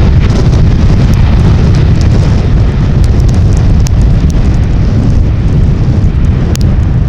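Jet airliner's engines running at high power close by, a loud, steady low rumble that eases slightly near the end, with scattered faint ticks of rain.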